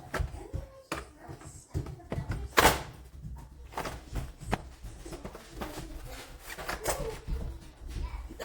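A series of irregular knocks and thunks, as of objects being handled and set down, the loudest about two and a half seconds in, over a low rumble. No vacuum motor is running.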